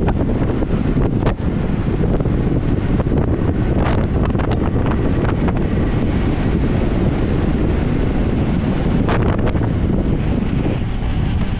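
Wind buffeting a camera microphone on a fast mountain-bike descent: a loud, steady rumble, broken by a few sharp knocks from the bike over rough ground.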